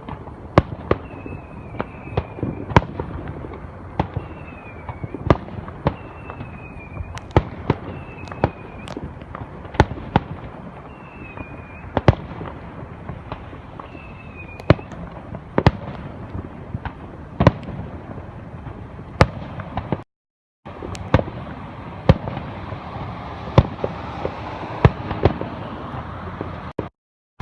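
Fireworks display: a steady run of sharp bangs and cracks, one or two a second, with short high falling whistles through the first half. The sound cuts out for a moment about twenty seconds in.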